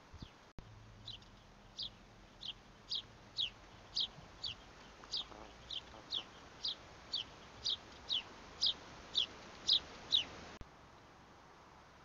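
A bird repeating a short, high, falling call about twice a second. The calls grow louder and cut off abruptly near the end.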